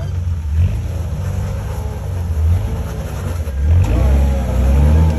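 Jeep engine running off-road, revving up and easing off in surges.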